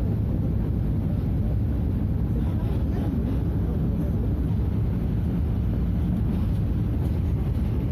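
Scania DC09 five-cylinder diesel engine of a Scania F250HB bus running steadily, a constant low drone with no change in pitch.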